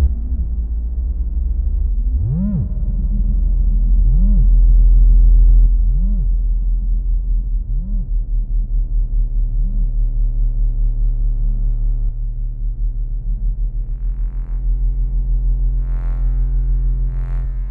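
Make Noise 0-Coast semi-modular synthesizer playing a self-generating Krell patch through reverb and delay. A steady low drone with tones that swoop up and back down about every two seconds, growing fainter; near the end, short hissy bursts join in.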